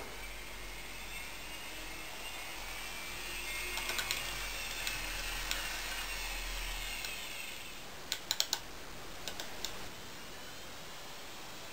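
Sound unit of a TOMYTEC N-gauge Okayama Electric Tramway 9200 'MOMO' model tram playing a faint VVVF inverter motor whine, its tones gliding up and then down over a low hum that stops about seven seconds in. A quick cluster of sharp clicks follows about a second later.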